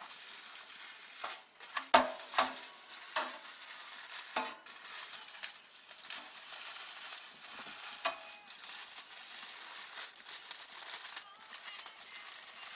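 Utensils knocking and scraping while smoked pork belly is handled, a few sharp clicks over a steady hiss.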